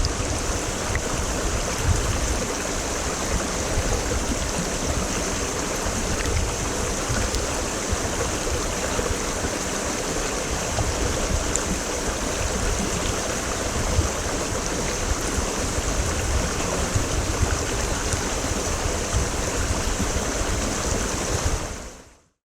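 Mountain stream (quebrada) water rushing steadily over rocks, with a full, even roar; it fades out quickly near the end.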